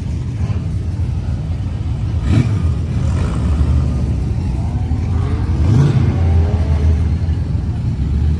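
Car engines running with a steady low rumble; one engine revs with a rising pitch about five to six seconds in.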